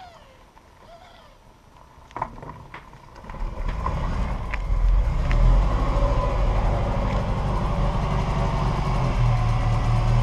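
Ferrari Mondial Quattrovalvole's V8 engine running at low speed as the car pulls out of a driveway and turns past. It grows louder from a few seconds in, then runs steadily.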